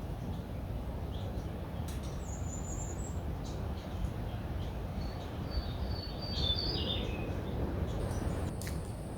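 A bird chirping: a short high call about two seconds in, then a falling run of chirps around six to seven seconds in, over a steady low rumble.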